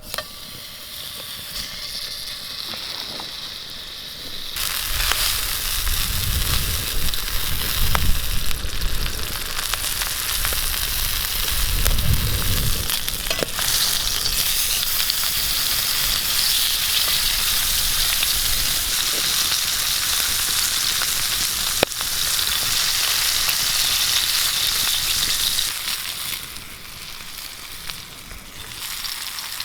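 Food frying in a hot pan, a steady sizzle that swells about four seconds in and dies down near the end.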